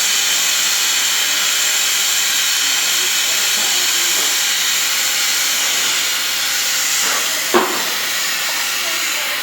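Wooden beehive box sizzling in a tank of hot wax, a loud steady hiss. A brief sharper sound comes about seven and a half seconds in, and the hiss falls away at the end.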